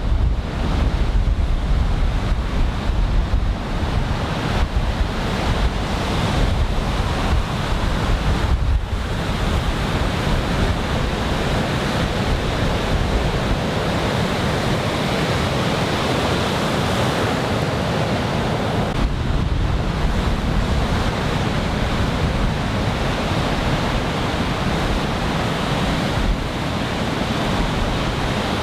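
Heavy surf from a typhoon swell breaking and washing ashore, a steady rushing noise. Wind buffets the microphone, most strongly in the first half.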